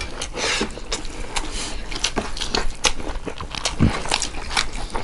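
Eating sounds: wet chewing and lip smacks, with irregular short clicks, as meat curry and rice are eaten by hand.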